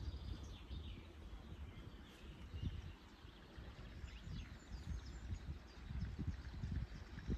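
Faint bird chirps scattered over an uneven low rumble of outdoor background noise.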